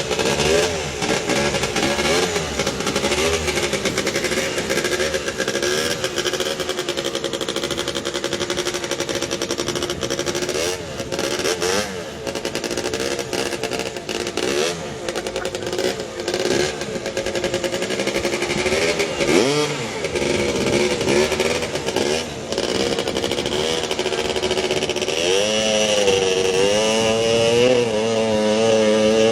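Motorcycle engine fitted to drive a boat, running with its speed rising and falling again and again as it is revved. Near the end it climbs to a higher, steadier speed.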